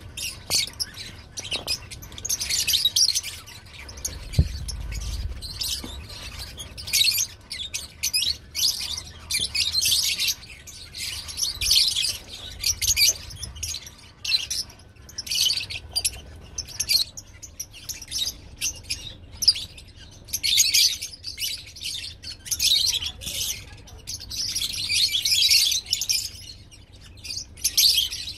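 Many lovebirds chattering together: dense, high-pitched chirps and tweets in overlapping bursts, with no pause.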